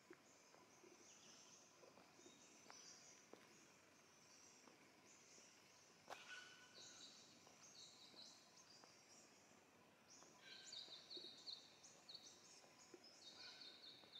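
Faint high-pitched calls of small forest birds in Western Australian bush, a string of chirps and trills that grows busier and louder in the last few seconds, with a few soft ticks.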